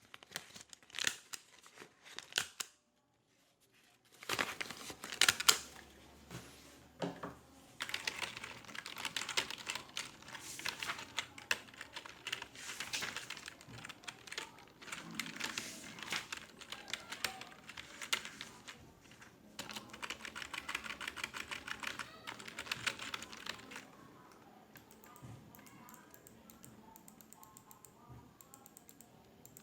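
Typing on a computer keyboard in fast runs of key clicks, with scattered clicks and rustling in the first seconds and a brief dead gap about three seconds in. The typing fades to faint, sparse ticking near the end.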